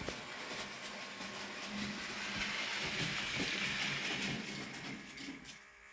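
Bachmann Class 03 model diesel shunter running on a model railway: its small electric motor whirring and its wheels, with four wagons behind, rolling and clicking over the track. The sound dies away about five and a half seconds in.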